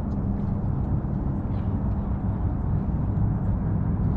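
Windy waterfront ambience: a steady low rumble of wind, with a faint steady hum underneath.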